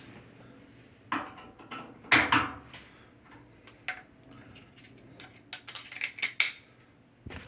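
Irregular metallic clinks and knocks of tools and metal parts being handled during appliance repair work, the loudest about two seconds in, with a quick run of small clicks around six seconds in.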